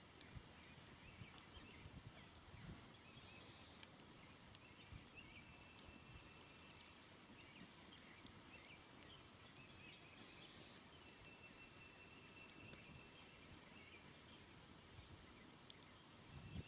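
Faint crackling of a smoldering wood campfire, with scattered small ticks and pops. A distant high, steady trill of about two seconds sounds three times.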